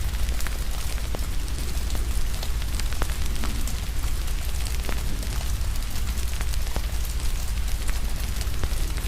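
Wood fire crackling, with frequent sharp pops and snaps, over steady rainfall and a deep, even rumble.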